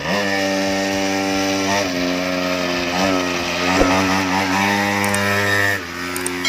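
Small mini-bike engine running at high revs, its pitch dipping briefly and recovering a few times.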